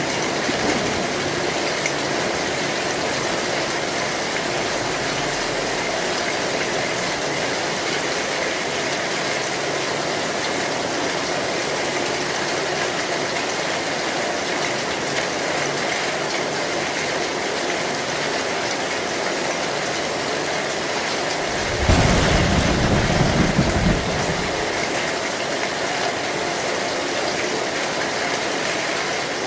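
Heavy rain falling steadily on an old zinc (corrugated metal) roof. About three-quarters of the way through, a low thunder rumble rises over it for about two seconds.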